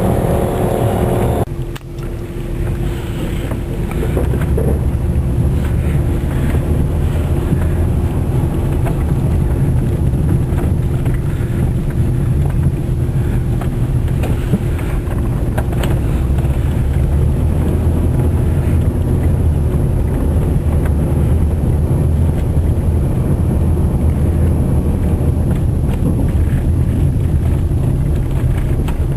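A car driving through snow gives a steady low rumble of engine and tyres. A pitched hum stops abruptly just over a second in, and the rumble continues evenly after that.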